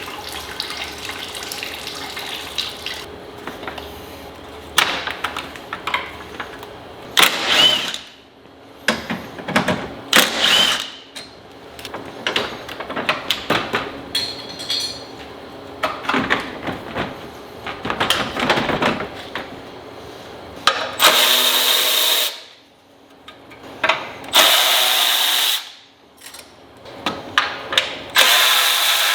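Mechanic's tools at work: scattered clicks and clanks of metal tools, then three loud bursts of hissing, each a second or so long, near the end.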